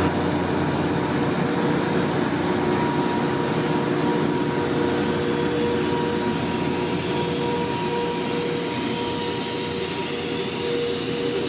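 Train locomotive running steadily: a loud, even rumble with a steady high whine over it, no clear beginning or end.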